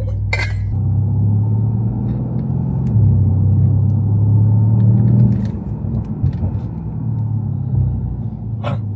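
Twin-turbo 4.0-litre V8 of a Mercedes-AMG C63 S, a low steady drone while driving at low speed. It swells for a couple of seconds, then eases off about five and a half seconds in.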